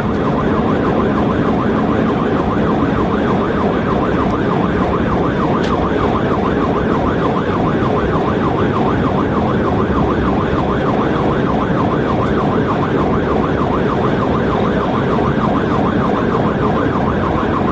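Police siren in rapid yelp mode, sweeping up and down about three to four times a second, over steady loud road and engine noise from a cruiser at highway speed. A single sharp click sounds about six seconds in.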